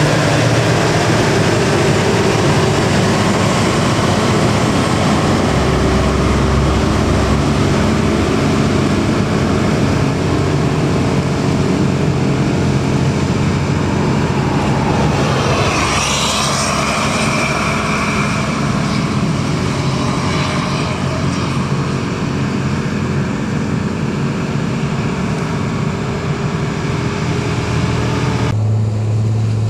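Heavy truck engines running under load with steady road traffic noise; about halfway through a vehicle passes close by.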